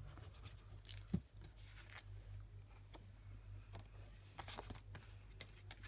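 Faint rustling and light taps of card stock being handled and pressed down, with a sharper knock about a second in and a brief flurry of rustling near the end, over a steady low hum.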